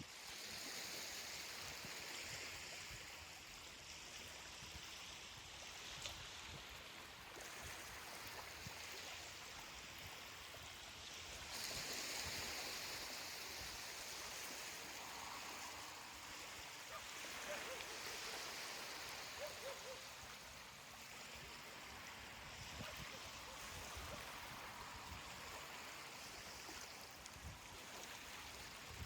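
Ocean surf washing onto a beach: a steady hiss of water that swells gently as each wave breaks and then eases off, several times.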